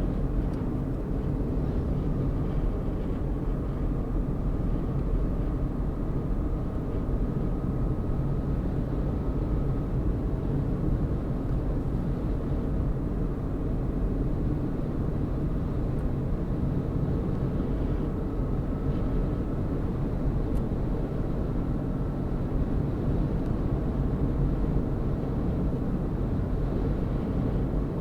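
Steady engine and road noise from a vehicle cruising at an even speed, a low rumble that holds level throughout.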